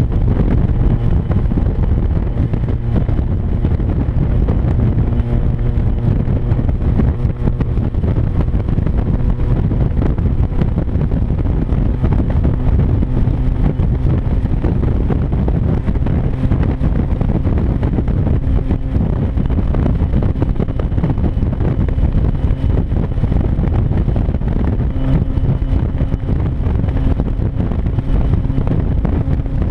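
1996 Mazda Miata's 1.8-litre four-cylinder running steadily at highway speed through a deliberate exhaust leak, the pipe spaced off the catalytic converter by washers, so the exhaust is very loud and largely unmuffled.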